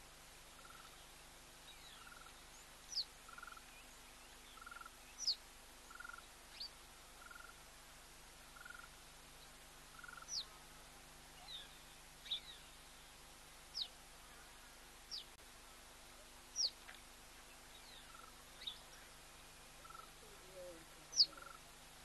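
Faint wild bird calls: short, high whistles that drop sharply in pitch, one every second or two, the loudest near the end. Under them runs a soft, lower note repeated about once a second, which pauses for several seconds midway and then resumes.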